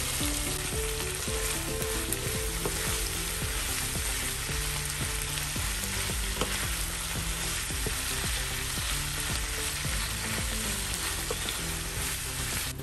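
Pork and kimchi sizzling in a nonstick frying pan as they are stirred with a wooden spatula: a steady frying hiss with small crackles and the clatter of the stirring.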